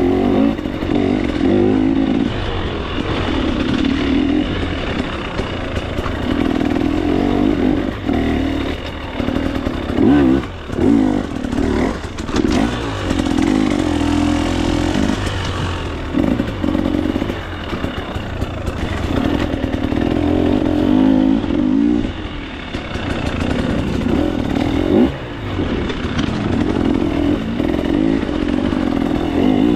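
KTM 300 XC-W two-stroke single-cylinder dirt bike engine running under load on trail, revving up and down as the throttle is worked. It drops off briefly about a third of the way in and again about three quarters through.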